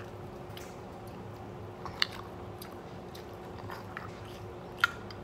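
Close-up eating sounds: chewing and picking at crab legs, with two sharp clicks, about two seconds in and near the end, over a steady faint hum.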